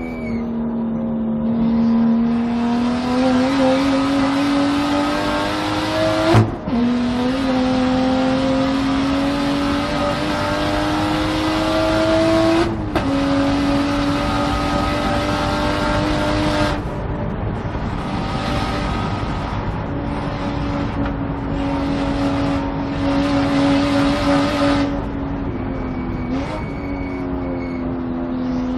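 Single-turbo BMW track car's engine at full throttle, its pitch climbing through the gears with two quick upshifts about six seconds apart. It then eases off to slow for a corner, with a short rev blip on a downshift near the end.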